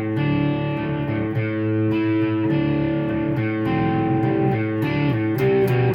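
Electric guitar played through a Marshall MG100HFX amplifier with its chorus effect on: sustained chords ringing, changing every second or so, with a busier run of notes near the end.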